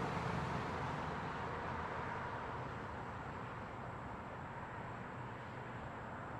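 Light road traffic at an intersection: a steady wash of car and tyre noise that eases off a little after the first couple of seconds.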